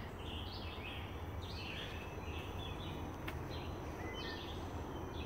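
Woodland birds calling: a string of short, high calls, about two or three a second, over a steady low rumble.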